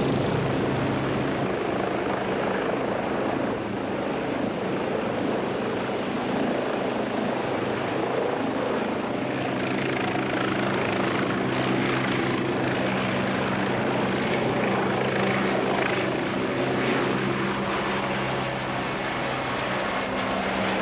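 Westland Wasp helicopter running for launch: a steady turbine whine high up over a low, even hum of the engine and rotor.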